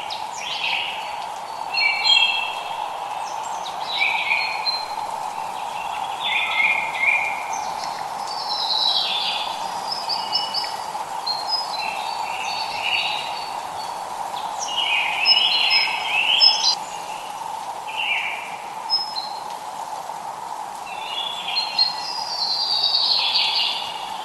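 Songbirds singing in short, repeated phrases every second or two, over a steady hiss of light rain.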